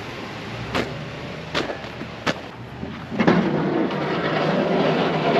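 Three sharp knocks, then about three seconds in a truck engine comes in loudly with a steady low hum and keeps running.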